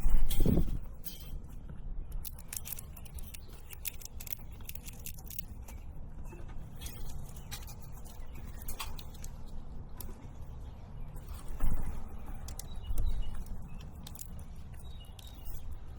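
Scattered small clicks and taps over a steady low rumble, with a few dull thumps about half a second in and again near the end.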